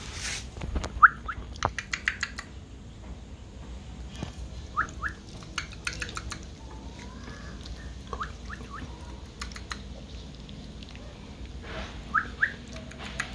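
A bird chirping in pairs of short rising notes every three to four seconds, with scattered sharp clicks and taps; the loudest click comes about a second in.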